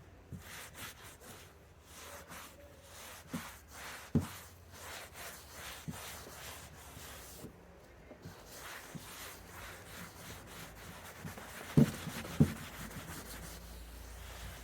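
Microfiber cloth wiping sanding dust off a freshly sanded wooden cabinet top in quick, repeated rubbing strokes. A few light knocks on the wood stand out, one about four seconds in and two close together near the end.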